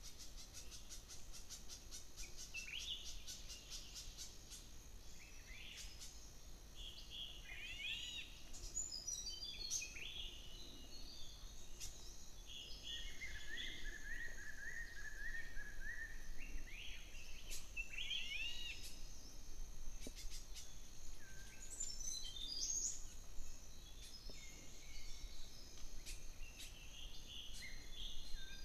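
Several wild birds calling in a fruiting tree: a steady scatter of short high chirps and whistled notes from different birds, with one longer, level call about halfway through.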